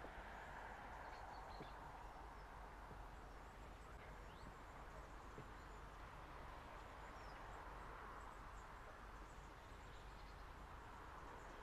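Faint, steady rolling noise of a slow-moving rake of loaded bogie tank wagons on a curve, with a few faint bird chirps.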